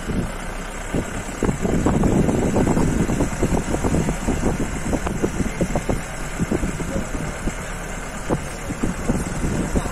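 Vehicle engine running, with frequent short knocks and rattles over a steady low hum. The knocking is heaviest and loudest about two to three seconds in.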